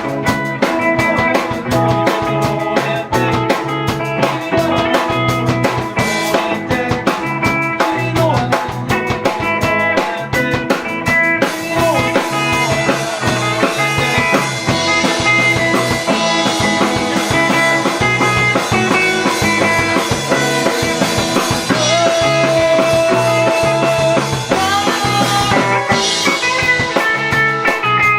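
Rock band playing live: drum kit keeping a steady beat under electric guitar, with a long held note a little past two-thirds of the way through.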